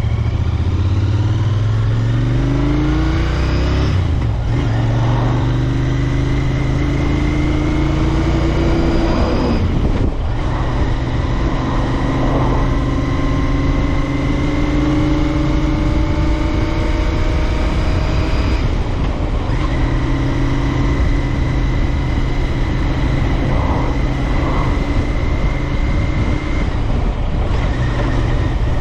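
Royal Enfield Interceptor 650's parallel-twin engine and exhaust under way. The engine note climbs steadily in pitch as the bike accelerates, dropping briefly about four times at upshifts, with wind rush underneath.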